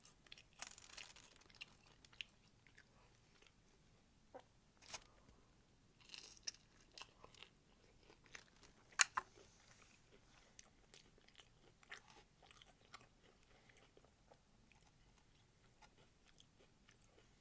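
A person chewing and biting crunchy food close to the microphone, with faint, scattered crunches, the loudest one a little past halfway.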